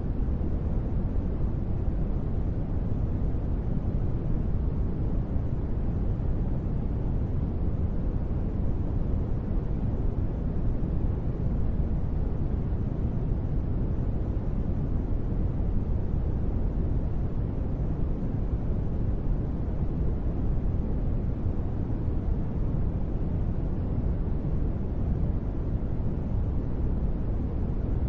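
Steady, deep rushing noise of a sleep white-noise track billed as gentle rain. It is heaviest in the low end, with no separate drops standing out and no change in level.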